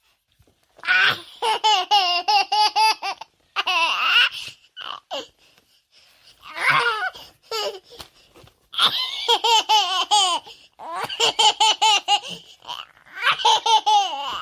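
A baby laughing hard: high-pitched fits of rapid, pulsing laughter, several bouts in a row with short breaks between them.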